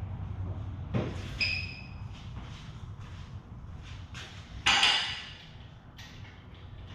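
Metal clanking during shop work: a knock about a second in that leaves a short ringing ping, then a louder clank just before five seconds, over a steady low hum.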